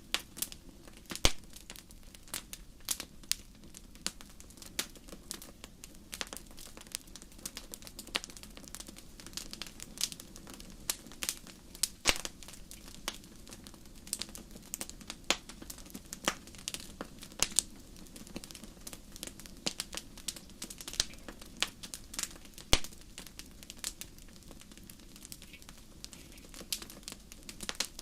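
Wood fire crackling in a fireplace: irregular sharp pops and snaps, several a second with an occasional louder crack, over a steady low rush of the burning fire.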